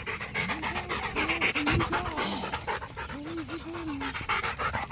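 A Rottweiler panting rapidly and steadily, several breaths a second, out of breath from playing fetch.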